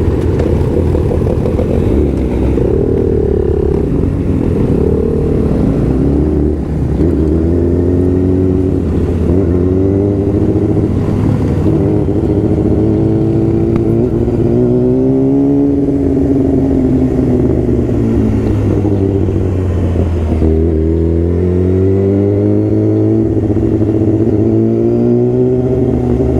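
Sportbike engine running while being ridden, its pitch climbing and falling again and again as the rider speeds up and eases off. About twenty seconds in, the pitch drops sharply, then climbs once more.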